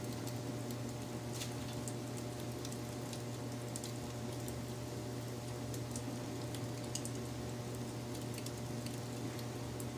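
Wood fire crackling: scattered sharp pops and ticks over a steady soft hiss, with a constant low hum underneath.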